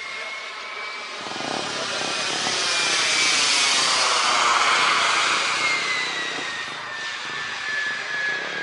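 KingTech K80 model jet turbine in an RC Tornado making a pass: its whine grows louder to a peak midway, then fades as the pitch slides down while the jet moves away.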